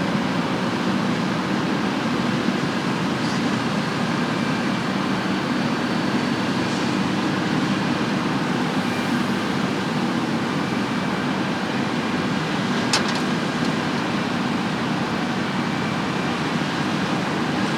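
Heavy farm machinery running steadily, a constant engine and machine drone, with a single sharp click about two-thirds of the way through.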